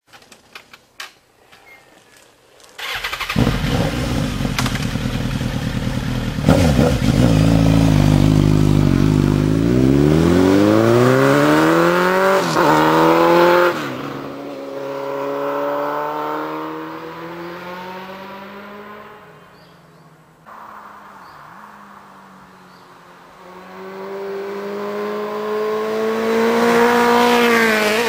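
Suzuki GSX-R1000 K4 inline-four through a short stubby end-can exhaust: a few clicks, then the engine starts about three seconds in and runs at a low, steady idle. From about ten seconds in the revs climb and fall in long sweeps, with a brief break in one climb and a sudden drop-off soon after.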